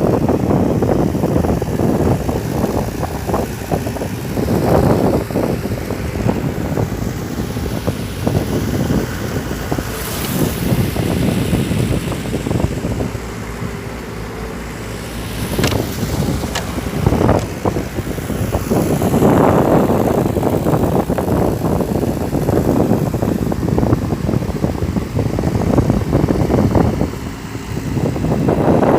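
Mahindra 575 DI tractor's four-cylinder diesel engine running as the cage-wheeled tractor works through mud, mixed with gusty wind noise on the microphone.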